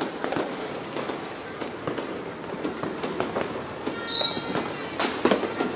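Small New Year fireworks crackling and popping, many quick sharp pops over a steady noisy din. A brief high-pitched tone comes about four seconds in, and a louder single crack about five seconds in.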